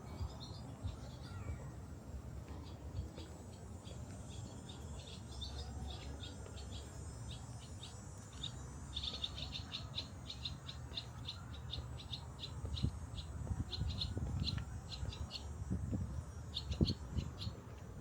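Songbirds chirping: short high notes in quick runs, densest around halfway through, over a steady low rumble. A few low thumps come in the last third.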